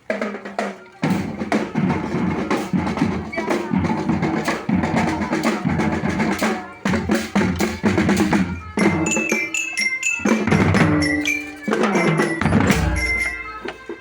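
School marching band playing, led by its drum section: bass drums and snare drums beat out a rhythm. About two-thirds of the way through, a melody of short, high, bell-like notes joins the drums.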